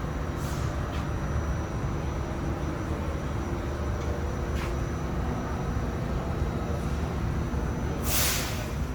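Interior of an R46 subway car: a steady low rumble with a thin high whine, and a few short air hisses, the loudest a burst of air from the brakes just before the end.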